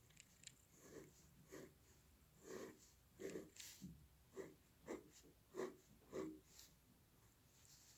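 Quiet hand-drawing strokes on paper: about ten short scratches, each about half a second to a second apart.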